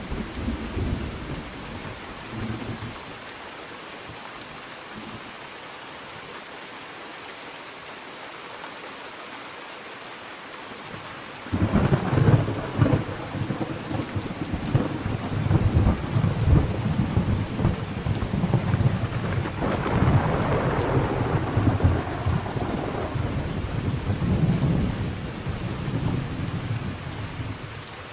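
Steady rain with thunder. The end of a rumble fades away in the first few seconds, then a loud clap of thunder breaks in suddenly about eleven seconds in and rolls on, swelling again around twenty seconds in before slowly dying down.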